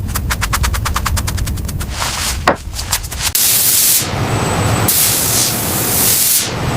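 Rapid mechanical clatter of about ten sharp clicks a second for about two seconds, then two loud bursts of hissing, like a spray or air jet, over a steady low machine hum.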